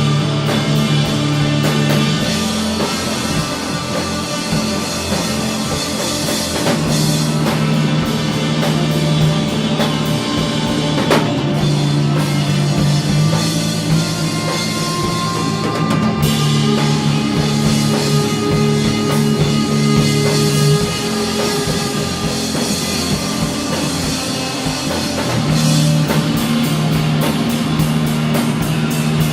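Stoner rock instrumental: guitars and synthesizer hold long low notes that change every few seconds over a steady drum kit.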